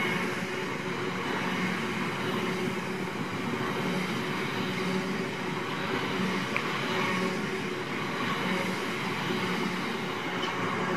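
Freight train of covered biomass hopper wagons rolling past at close range: a steady rumble and clatter of wagon wheels on the rails, with a regular beat as wheelsets pass.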